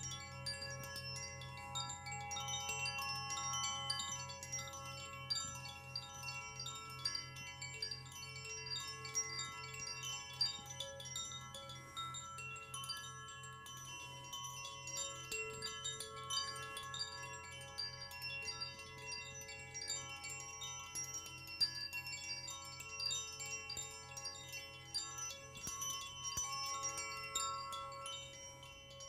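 Wind chimes ringing on and on in a sound bath, with many light overlapping strikes and their tones sustaining together. A low, evenly pulsing hum runs underneath.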